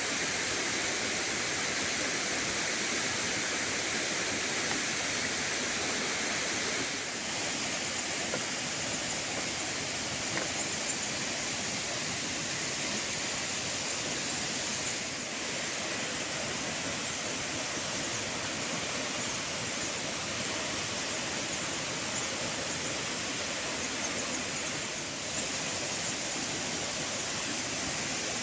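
Steady rushing noise of running water, with small dips in level a few times.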